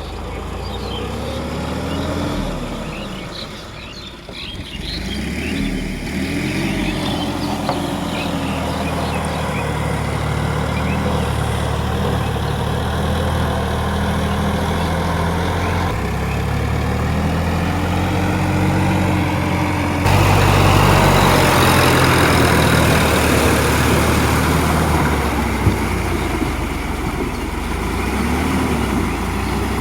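Tractor engine running steadily while tilling a field, its pitch rising and falling several times as the engine speed changes; it becomes louder about two-thirds of the way through.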